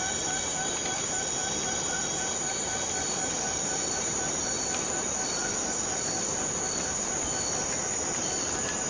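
Steady rainfall in tropical rainforest, an even hiss, with faint high-pitched tones pulsing at a steady rhythm above it.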